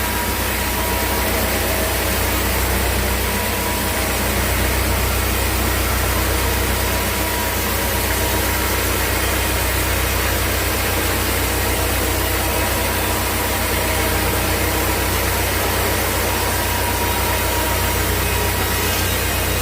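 Sawmill machinery running steadily: a low engine hum under an even hiss, with no change in pitch or level.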